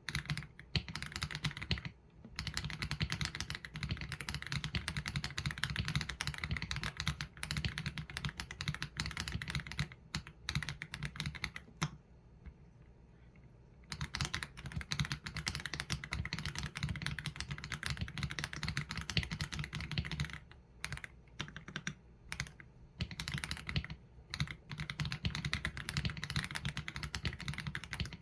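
Typing on an AULA F87 Pro mechanical keyboard with Leobog Graywood V3 linear switches and PBT keycaps: quick runs of keystrokes that break off briefly a couple of times, with one pause of about two seconds near the middle.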